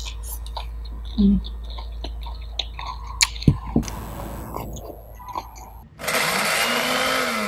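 Close-up chewing and mouth sounds of grilled beef and vegetables, with a few sharp clicks and a low thump. About six seconds in, an electric mini chopper starts whirring loudly as it blends chilli and garlic.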